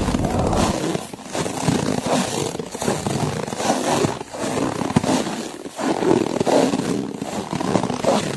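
Footsteps crunching through snow in slow, uneven steps, with blowing wind.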